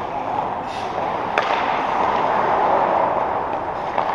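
Game play in an arena: a steady din of play and crowd, with a sharp crack about a second and a half in and a smaller knock near the end.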